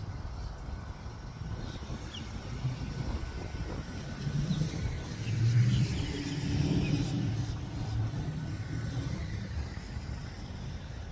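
A motor vehicle's low engine rumble, swelling to its loudest about halfway through and then easing off, as if passing by.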